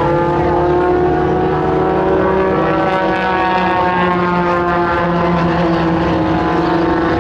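Propeller airplane engine running steadily as the plane flies in the air show, with a strong, even engine note over a rushing background.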